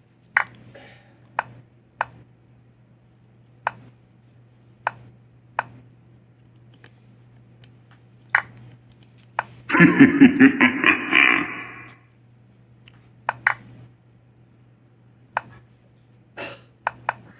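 Scattered single sharp clicks, about one every second or two, over a faint steady hum, with a loud rough burst lasting about two seconds about ten seconds in.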